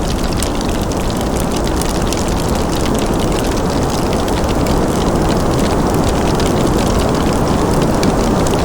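Wood fire crackling in a fireplace, with many small irregular pops and snaps over a steady, dense low rumble.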